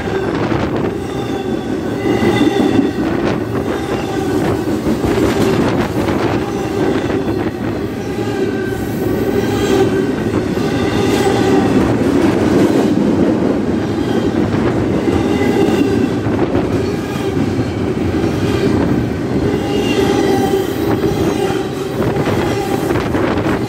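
Intermodal freight train passing close by: a steady rumble of steel wheels on the rails, with a high wheel squeal that comes and goes every second or two and occasional sharp clicks.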